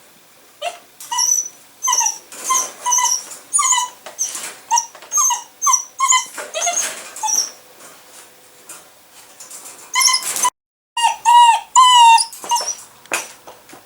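Puppy whining in a closed crate: a rapid run of short, high-pitched cries, many sliding down in pitch, stopping abruptly a little after ten seconds and starting again. It is the distress crying of a puppy not yet used to being shut in its crate.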